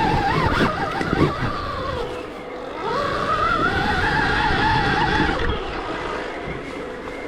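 Stark Varg EX electric enduro motorcycle riding off-road, its electric motor whining and rising and falling in pitch with the throttle over the rumble and knocks of the bike on rough ground. The whine climbs about three seconds in, holds, and drops away a little after five seconds.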